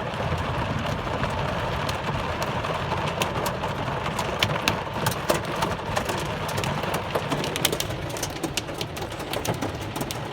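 Heavy rain and hail pelting a car, heard from inside: a steady wash of rain with many sharp, irregular ticks of hailstones striking the vehicle.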